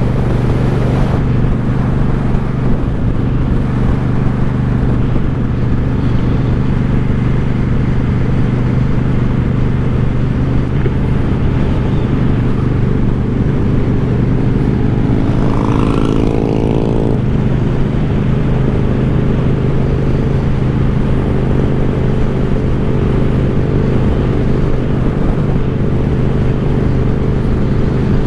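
A 2014 Suzuki Boulevard C50's V-twin engine, through an aftermarket Cobra exhaust, runs steadily while the motorcycle is ridden. A brief higher-pitched sound comes in about halfway through.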